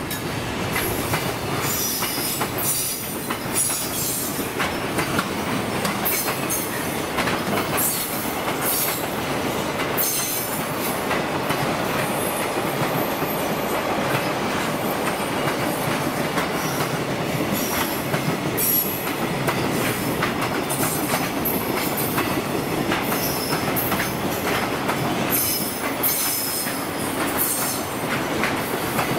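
Koki container flatcars of a long freight train rolling past, with a steady rumble of wheels on rail. Short high-pitched wheel squeals come again and again throughout.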